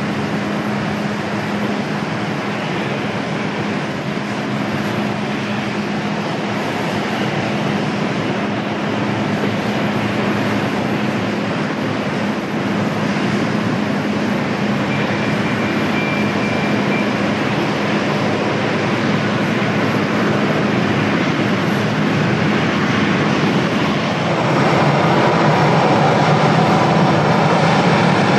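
Jet airliner's engines making a loud, steady noise that grows louder and brighter near the end.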